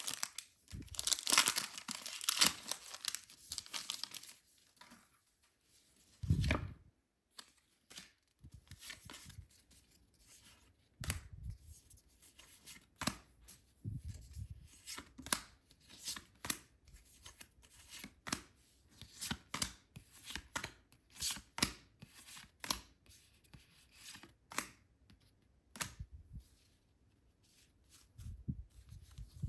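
Packaging being torn open and crinkled by hand, plastic and foil wrappers of a Pokémon card set. A dense run of tearing in the first few seconds, a low thump about six seconds in, then short scattered rips and crinkles.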